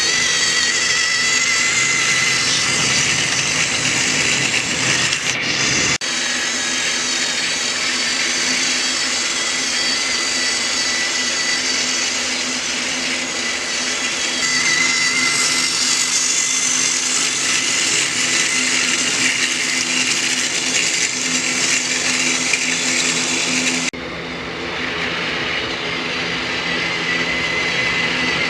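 Motorised Trackmaster toy train engine whirring steadily with a high motor whine as it runs around the track. The sound changes abruptly about six seconds in and again near the end.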